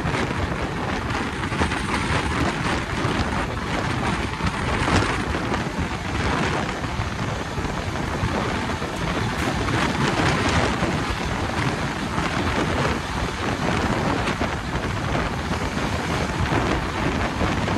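Passenger train running at speed: a loud, steady rush of wheel and wind noise with a deep rumble underneath.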